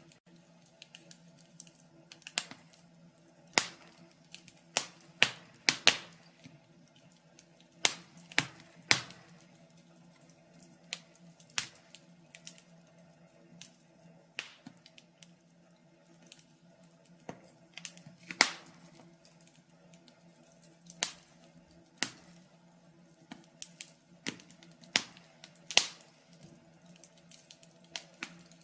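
Wood fire crackling in a fireplace: irregular sharp pops and snaps from the burning logs, several a second at uneven spacing, over a faint low steady hiss.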